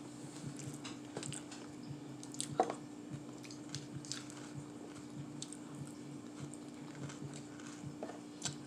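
Close-miked eating: wet chewing and mouth squishes with small bites and clicks, the sharpest about two and a half seconds in, over a steady low electrical hum.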